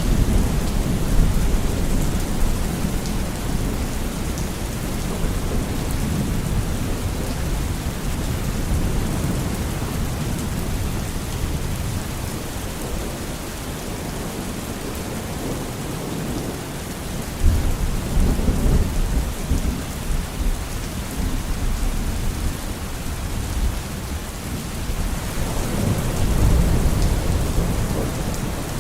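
Steady heavy rain with thunder rumbling underneath; the rumbles swell near the start, again from a sudden onset in the middle, and once more near the end.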